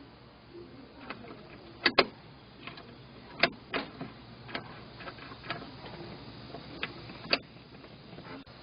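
A series of irregular sharp clicks and knocks, about ten in all, over a low steady background; the loudest are a close pair about two seconds in.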